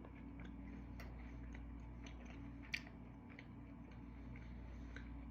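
Faint chewing with small scattered mouth clicks, over a steady low hum of room tone.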